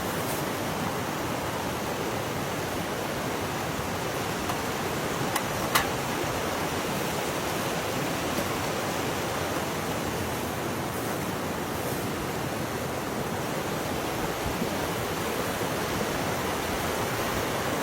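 Steady rush of a mountain stream, with a couple of short clicks about six seconds in.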